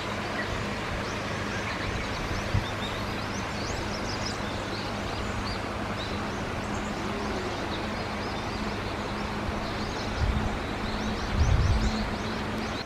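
Small birds chirping repeatedly over a steady rushing outdoor noise with a low hum underneath; a couple of low thumps near the end.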